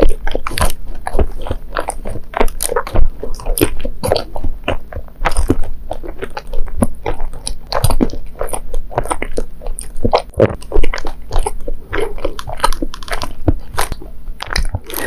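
Close-miked chewing of a mouthful of mochi (rice cake) with the mouth closed: a rapid, irregular run of wet mouth clicks and smacks.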